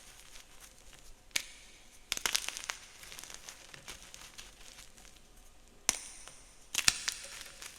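Gym chalk crushed and crumbled by hand, with fine crackling broken by several sharp, crisp snaps, in two clusters about a second and a half in and a second before the end.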